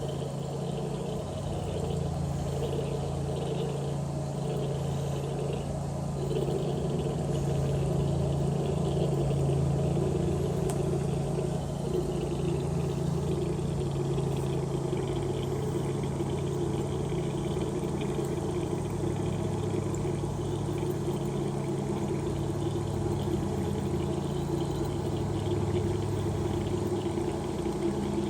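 Snapping turtle gurgling: a low, continuous rumbling gurgle that grows slightly louder after about six seconds.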